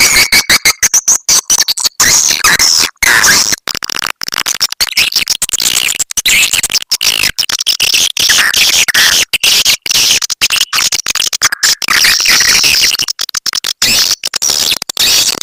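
Edible-nest swiftlets twittering in a dense chorus, played as a loud "walet petir" swiftlet-calling lure recording. The chirps come in fast, chopped bursts with many brief gaps.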